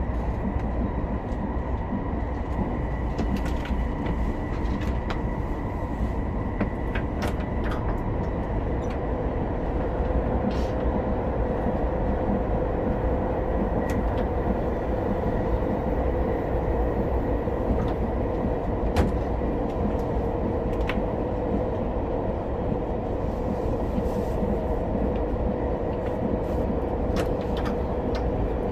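Inside the passenger cabin of an SRT high-speed train (SR 120000-series electric multiple unit) running at speed: a steady, dense rumble of running noise with a thin whine, stronger from about a third of the way in. Occasional light clicks and creaks come through it.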